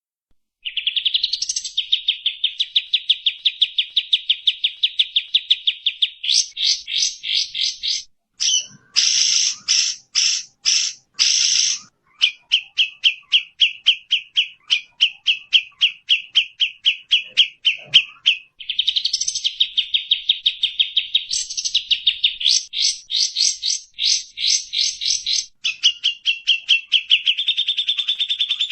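Songbird calls from a bird-song training recording: long runs of rapid, evenly repeated trilled notes, broken by a few short bursts of faster, harsher notes about a third of the way in.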